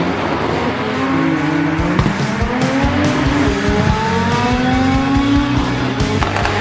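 Car engine revving hard in repeated rising sweeps, with tyres squealing, as in a burnout; music plays underneath.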